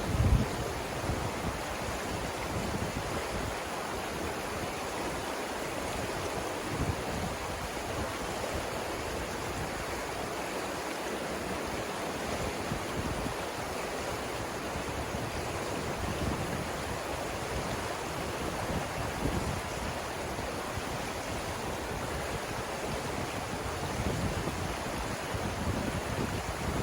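Savannah River rushing over the rapids, a steady, even water noise. A few brief low rumbles of wind on the microphone come and go, the strongest right at the start.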